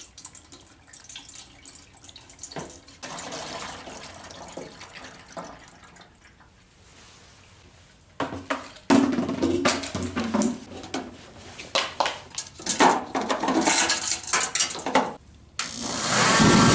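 Diesel fuel poured into a forced-air kerosene heater's tank, followed by irregular knocks and clatter as the heater is handled. Near the end the heater starts up, and its fan and burner run loud and steady.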